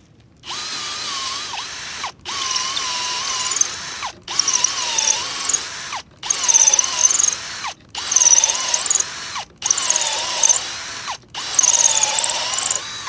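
Drill running a step bit through a thin steel bracket. It runs in about six bursts of a second or two with brief stops between, and the motor whine sags and wavers as the bit cuts.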